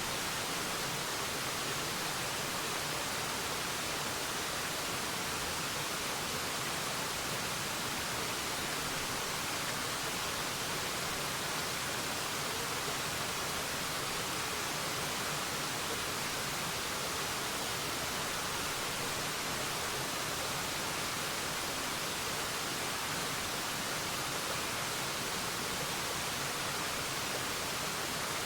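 Waterfall: falling water making a steady, unchanging rush, mostly a high hiss.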